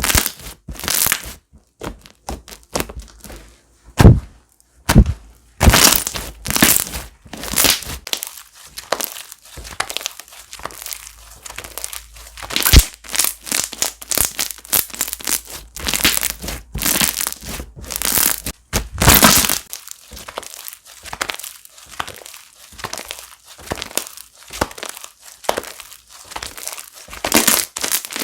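Slime being squished, pressed and stretched by hand, with irregular crackling, popping and sticky clicking sounds coming in quick bursts.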